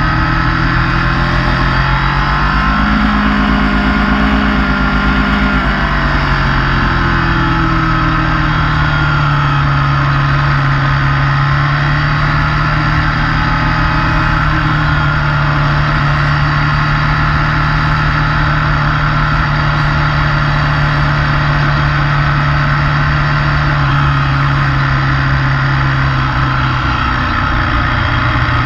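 Motorcycle engine running under way: the revs climb a couple of seconds in, ease back down after a few seconds, then hold steady for the rest of the stretch.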